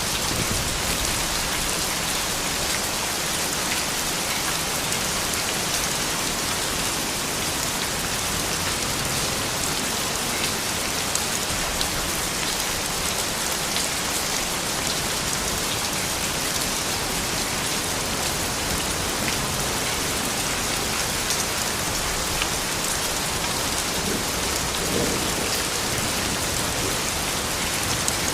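Steady, soft rain falling, a dense even patter with scattered individual drops ticking through it.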